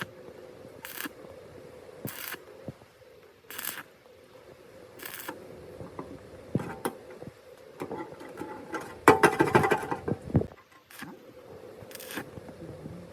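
Workshop handling sounds: sharp clicks and knocks every second or so, then a burst of metallic clatter about nine seconds in.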